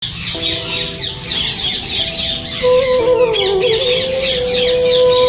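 A flock of small parrots chattering and squawking: a dense, continuous stream of short, high, falling calls.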